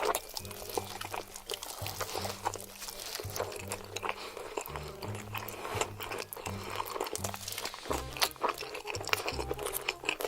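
Chicken being eaten: many sharp crunching, crackling bites and chewing, over background music with a repeating bass line.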